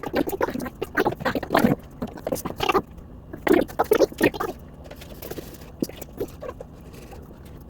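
Irregular rustling, scratching and tapping as a handmade bird model is handled and an eye is drawn on it with a marker, busiest in the first five seconds, then fainter.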